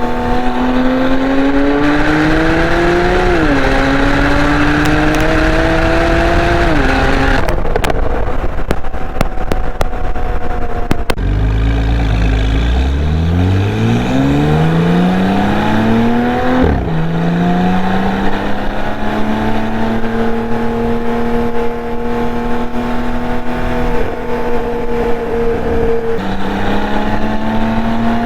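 2015 Porsche 911 Turbo S twin-turbo flat-six through a SOUL Performance exhaust, pulling hard through the gears. The revs climb with two quick upshifts in the first seven seconds, then the throttle lifts with a run of sharp crackles. It pulls strongly again from low revs, shifts up at about seventeen seconds, holds steady for a while, then shifts and climbs again near the end.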